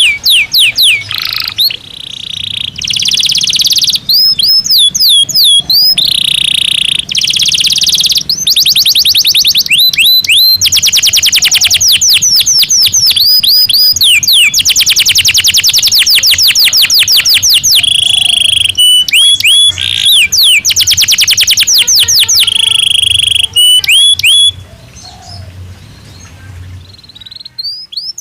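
Domestic canary singing: long, fast trills of rapidly repeated high notes, some sweeping up or down, with short breaks between phrases. The song drops off about 24 seconds in and starts again near the end.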